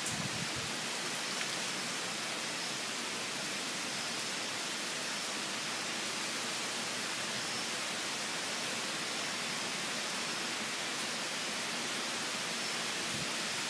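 Hurricane rain falling steadily, a constant hiss of heavy rain.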